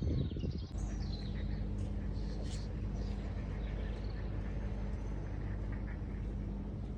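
Birds chirping and calling in short high notes over a steady low mechanical hum. A rough low rumble at the very start cuts off under a second in.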